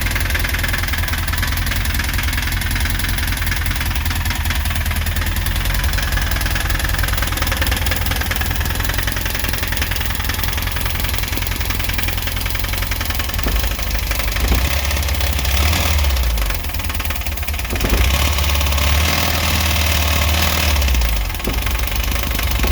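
2.1-litre engine running with a steady, rhythmic knock, which the owner takes for rod knock. Its note changes about two-thirds of the way through as the engine speed varies.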